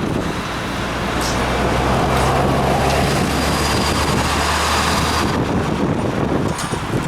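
A motor vehicle passing close by the bicycle: its engine hum comes in about a second in, swells and stops about five seconds in, over steady wind noise on the head-mounted camera's microphone.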